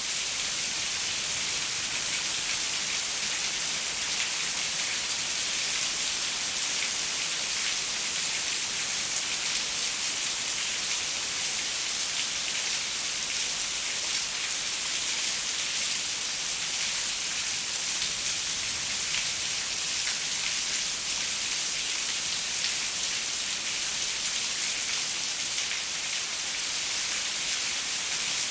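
Steady rain pattering on a window, an even hiss of fine drops with no let-up or thunder.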